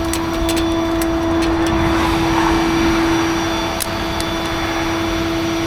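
Tow truck running: a steady mechanical hum with a constant whine, and a few faint clicks.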